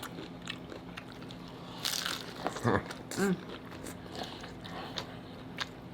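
Close-up crunching and chewing as hard taco shells are bitten into, a scatter of short crisp cracks with a couple of brief hums of the mouth.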